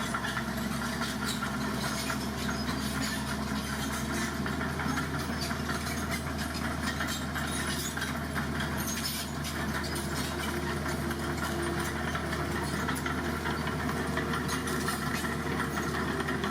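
Heavy truck engine running steadily at low revs, with faint scattered rattling over it.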